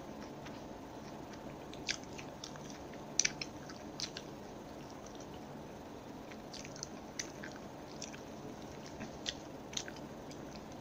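Close-miked chewing of a mouthful of food, with scattered soft crunches and wet mouth clicks over a steady low hiss.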